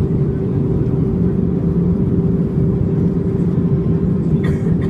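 Airbus A320 in flight: a steady low rumble of engines and airflow, with a constant hum on top. A brief faint higher sound comes near the end.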